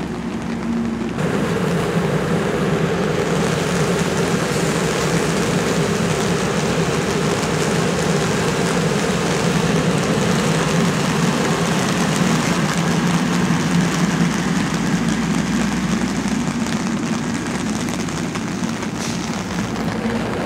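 A commuter train's Comet coaches rolling past close by: a steady rush and rumble of wheels on the rails with a low hum underneath, growing louder about a second in.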